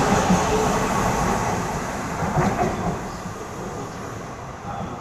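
A train running past on the tracks, its rumble fading steadily as it moves away.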